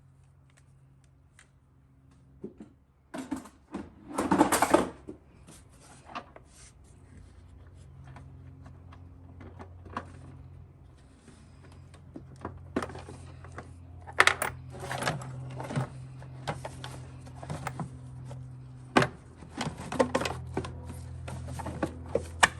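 Hand tools and engine-bay parts clicking and clattering as bolts and plastic covers are worked loose, with a longer rattling burst about four seconds in. A low steady hum sets in about eight seconds in.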